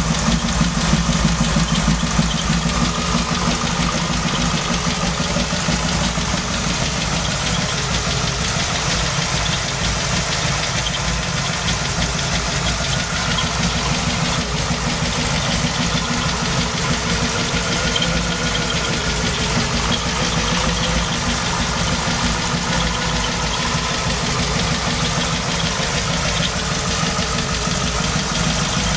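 Supercharged 454 big-block Chevrolet V8 with a BDS 8-71 Roots-type blower, idling steadily.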